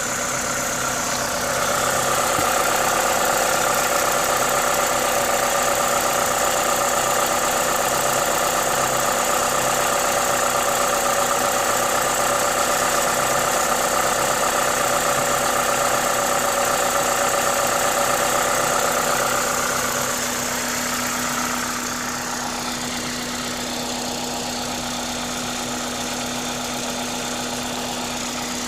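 Toyota 2ZZ-GE 1.8-litre inline-four running steadily with the hiss of an aftermarket induction kit over it. About a second and a half in the engine note rises and holds, then around twenty seconds in it falls back to a lower, steady idle.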